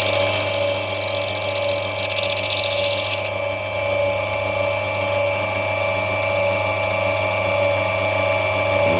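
Lapidary grinding wheel running with a steady motor hum. For the first three seconds or so an opal is held against the wheel, adding a loud high grinding hiss that stops when the stone is lifted off; after that only the machine's hum goes on.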